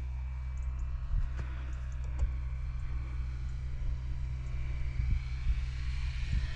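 Electric RC plane's brushless motor and propeller whining faintly as it flies a fast landing approach, growing a little louder toward the end, over a steady low rumble.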